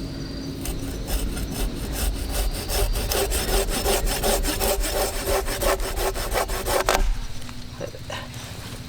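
Hand saw cutting through deadwood from a fallen tree with quick, even back-and-forth strokes. The sawing stops abruptly about seven seconds in.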